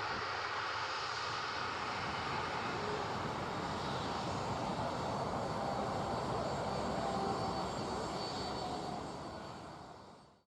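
Jet airliner's turbofan engines running steadily: a constant rush with a faint high whine, fading out near the end.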